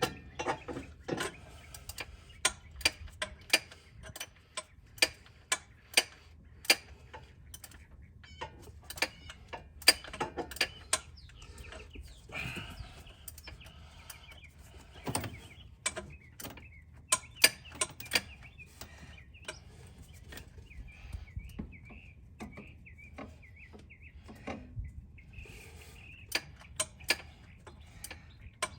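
Sharp clicks and taps, irregularly spaced at about one or two a second, with a faint bird-like chirping partway through.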